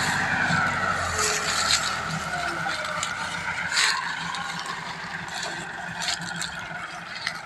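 Tractor running, a whining tone that dips in pitch and the engine sound gradually fading, with scraping and rattling clicks throughout.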